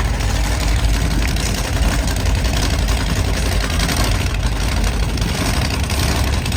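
Monster truck engine running steadily and loud, with no sharp revs.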